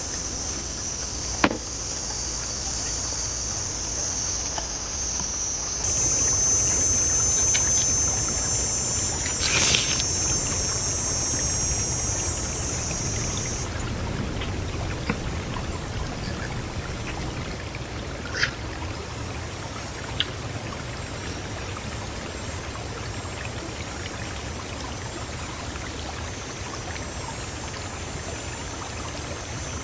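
Stream water running steadily, with a few sharp clicks.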